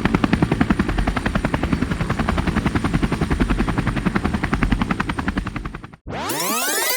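Helicopter rotor thumping close by, a rapid, even beat of blade slaps over engine noise, which cuts off about six seconds in. A sweeping electronic tone that rises and falls follows near the end.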